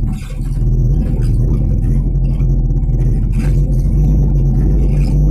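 A 1995 Mitsubishi Canter truck's engine running steadily under way. It grows louder over the first second, then holds level.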